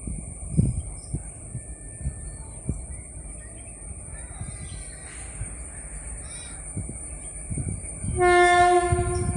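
Low, uneven rumble of a moving train, then about eight seconds in a WAP1 electric locomotive's horn sounds one loud, steady, single-pitched blast that runs on to the end.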